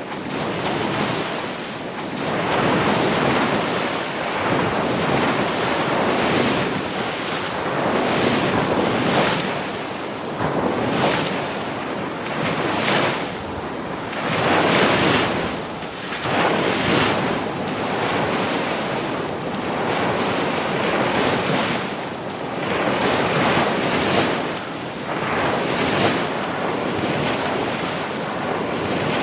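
Ocean surf: waves breaking and washing in a continuous rush that swells and eases every second or two.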